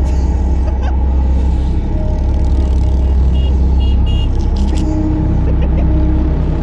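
Motor vehicle engines running steadily close by, with a few short high tones around the middle.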